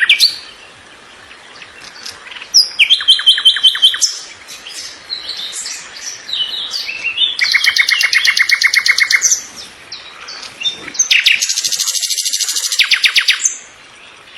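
Birdsong: a songbird repeats a loud, rapid trilled phrase of quick notes, each phrase a second or two long, three times, with softer scattered chirps in between.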